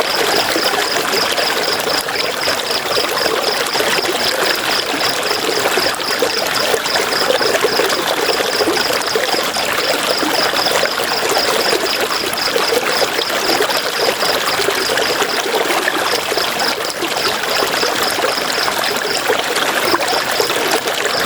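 River water flowing steadily, a constant rushing and trickling. Over it runs a high, rapid, evenly spaced pulsing that pauses twice, once about two-thirds through and again near the end.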